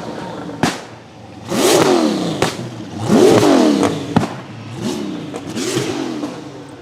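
A drift car's engine revs hard in about four bursts, its note climbing and falling each time over a hiss of tyre noise, with four sharp bangs between the bursts.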